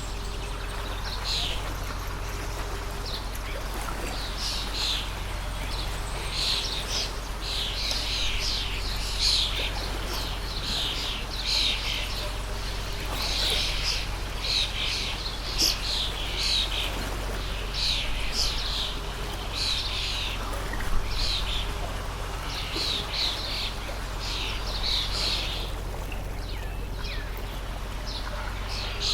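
Water stream running steadily, with small birds chirping over it in a long series of short, quick calls that stop near the end.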